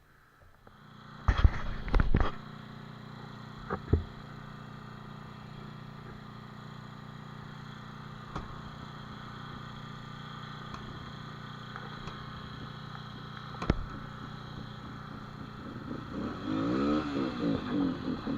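A dirt bike engine starts about a second in with a few loud knocks, then idles steadily. Near the end it is revved up and down a few times.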